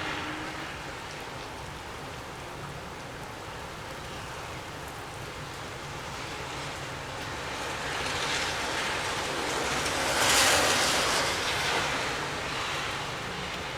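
Gusty wind blowing steadily, with one strong gust building about seven seconds in, peaking a few seconds later, then easing.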